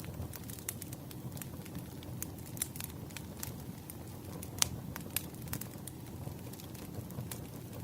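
Wood fire crackling: irregular sharp pops and snaps over a low, steady rumble of burning logs, with one louder pop a little past halfway.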